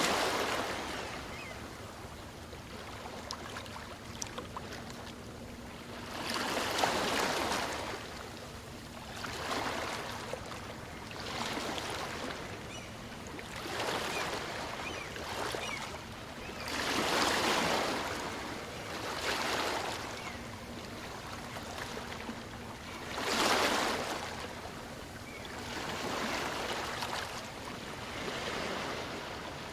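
Small waves of a calm sea breaking and washing in and out, one after another every two to three seconds, a few of them louder than the rest.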